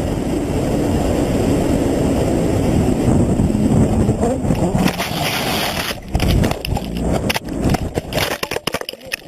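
Motorcycle ride heard through a helmet-mounted action camera: steady wind and engine noise. About five seconds in, this gives way to a run of sharp knocks and scrapes as the bike goes down.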